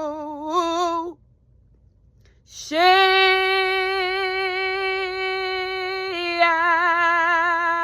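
Solo unaccompanied voice singing improvised syllables in tongues. A wavering sung line ends about a second in, and after a short pause comes one long held note that dips slightly in pitch about three quarters of the way through.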